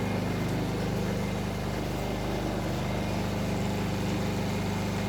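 Steady low hum of an engine running at an even speed, with a faint hiss over it.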